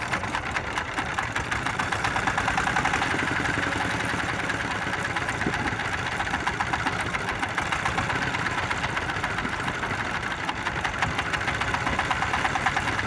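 Small fishing boat's engine running steadily, with a fast, even beat.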